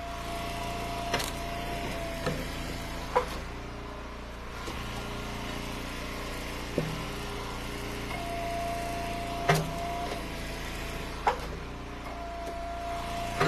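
Eastonmade Ultra gas-engine hydraulic log splitter running steadily while splitting ash rounds. A higher steady tone comes and goes three times as the ram works, and about seven sharp knocks and cracks sound as wood splits and pieces drop.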